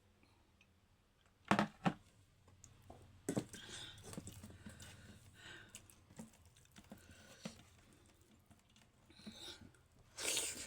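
Close-miked eating sounds from a meal of dhido and chicken gravy: chewing and wet food handling, with two sharp clicks about a second and a half in and scattered small clicks and rustles after.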